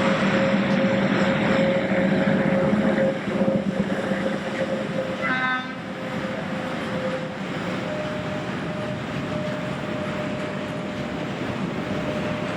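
Indian Railways electric freight trains running through, with a loud steady rumble of wheels and wagons under a constant hum. About five seconds in, a locomotive horn gives one short toot, and the rumble eases a little after it.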